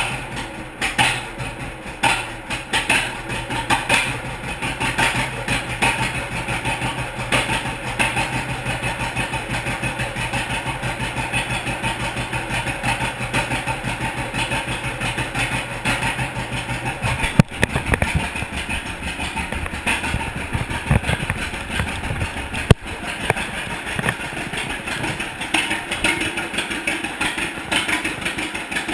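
1942 John Deere Model A's two-cylinder engine running with its popping exhaust beat, right after its first start following a stuck engine. A sharp knock is heard about 23 seconds in.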